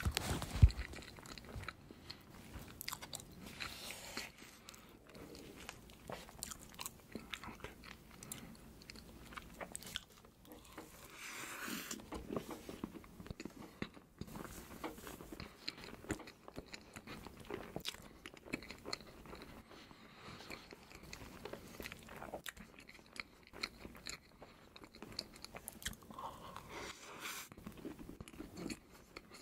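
Close-miked eating of a soft layered cream crepe cake: steady wet chewing and lip-smacking mouth sounds, with one sharp knock about a second in.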